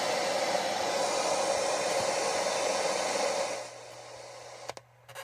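Sony ICF-2001 shortwave receiver's speaker giving a steady static hiss, with no station tuned in. The hiss drops sharply a little past three and a half seconds, and two short clicks follow near the end.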